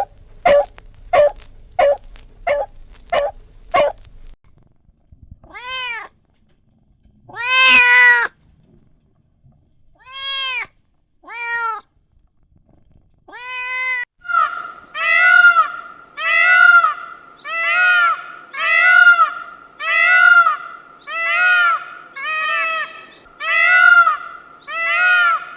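A domestic cat meowing: a few separate meows, then a steady run of repeated meows about once a second. Before the meows, for the first few seconds, there is a quick series of short calls about two a second.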